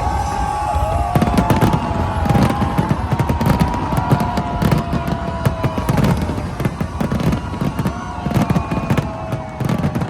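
Fireworks going off in rapid succession: a dense run of bangs and crackles, with several whistling tones that glide up and down in pitch over it.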